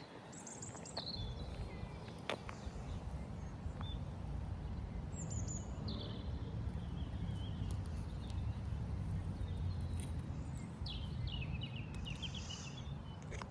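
Small birds chirping in scattered short calls, in clusters about a second in, around the middle and near the end, over a steady low outdoor rumble.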